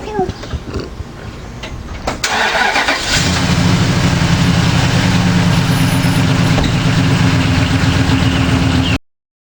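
Dodge Ram pickup's engine cranking, catching about three seconds in and settling into a steady idle, with its head gasket treated with Blue Devil sealer. Birds chirp faintly before the start, and the sound cuts off suddenly near the end.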